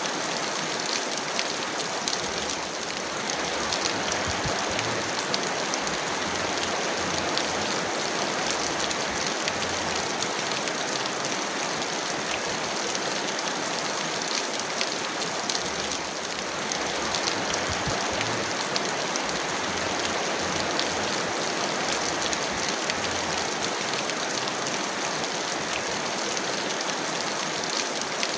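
Heavy rain falling steadily: a dense, even hiss with fine patter of drops.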